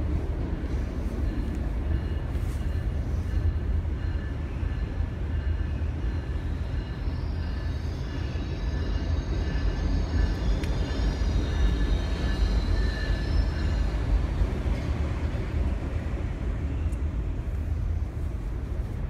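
Freight train of autorack cars rolling steadily past, its wheels making a continuous low rumble on the rails. Faint high-pitched squeals come and go through the middle.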